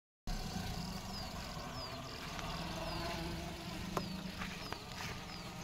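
A bird calling in a series of short, high, downward-sliding chirps over a steady low hum, with a single faint click about four seconds in.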